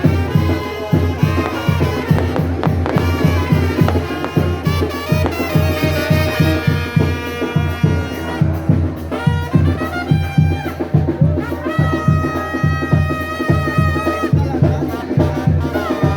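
Brass band music: trumpets and other brass playing held notes and melody over a steady bass and drum beat.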